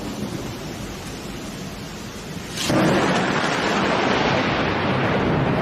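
Thunderstorm noise: a steady rush of rain and wind with no distinct thunderclap, jumping abruptly louder about halfway through and holding there.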